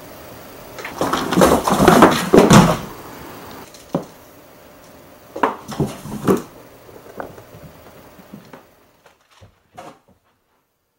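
A cat jumping in and out of a cardboard box: a run of thumps and scraping on the cardboard about a second in, a single sharp knock, then a few more knocks as it leaps out.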